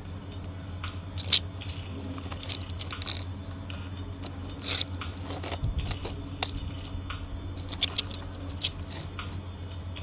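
Irregular light clicks and taps of plastic toys being handled and knocked together, over a steady low hum.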